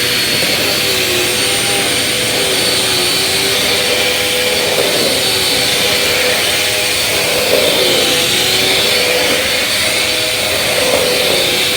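Bissell vacuum cleaner running steadily, a constant high motor whine over a hum that wavers a little up and down in pitch every couple of seconds as the vacuum works the floor.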